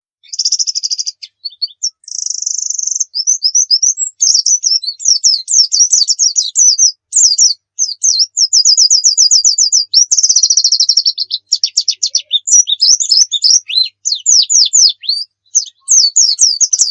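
White-eye (pleci) singing a fast, high-pitched song of rapid trills and chirp series, with brief pauses between phrases and many quick downward-sweeping notes.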